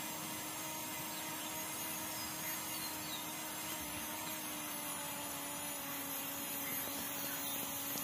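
Small electric motor of a toy tractor running steadily, turning a rubber belt that drives a miniature pump: a faint, even hum whose pitch sinks slightly.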